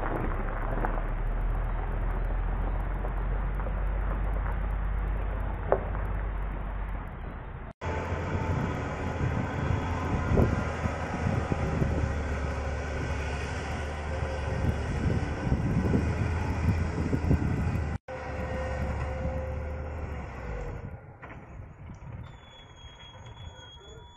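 Heavy truck engines running under load, in three separate clips cut together. The engine sound fades near the end and a steady high-pitched tone begins.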